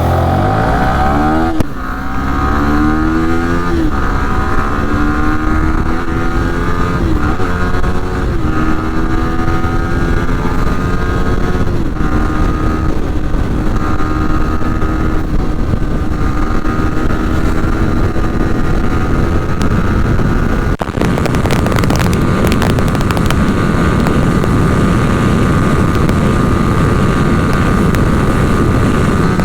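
Superbike engine accelerating hard through about five upshifts. Its pitch climbs and drops sharply at each shift, then it settles into a steady high-speed cruise. Later a rushing noise of wind on the microphone takes over.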